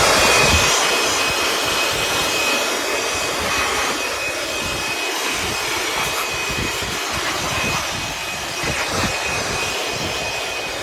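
Water jet spraying a dirt bike: a loud, steady hiss with a thin high whistle running through it.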